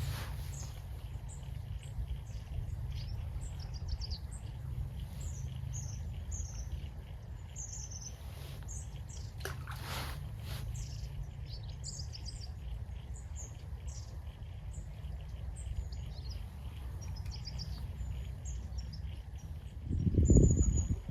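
Small birds chirping and calling, many short high notes scattered throughout, over a steady low rumble. Near the end a burst of loud knocking cuts in.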